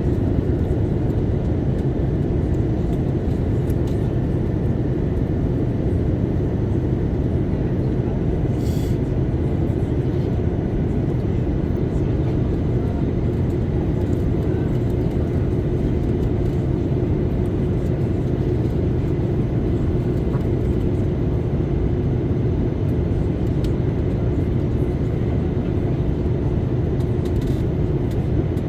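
Steady cabin drone inside an Airbus A330-900neo in flight, the Rolls-Royce Trent 7000 engines and airflow making a low rumble with a steady hum over it. Two faint clicks come through, one about nine seconds in and one near the end.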